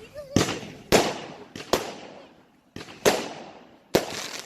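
Consumer fireworks going off: about five sharp booming reports within a few seconds, each trailing off with a ringing tail.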